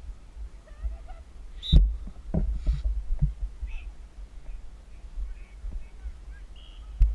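Low rumble of wind and movement on a helmet-mounted action camera, broken by a few dull thumps, the loudest about two seconds in, with faint distant voices.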